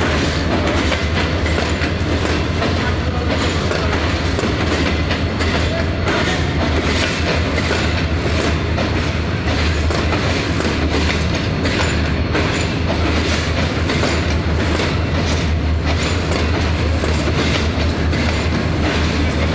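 Air-conditioned passenger coaches of a departing express train rolling past at low speed: a steady low rumble with wheels clicking over the rail joints.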